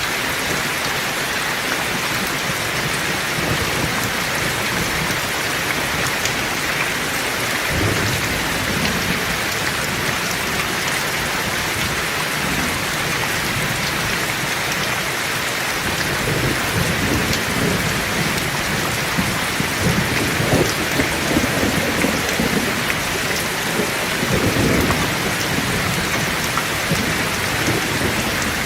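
Heavy steady rain with rolling thunder: a low rumble swells about a quarter of the way in, and longer rolls build and fade through the middle and latter part.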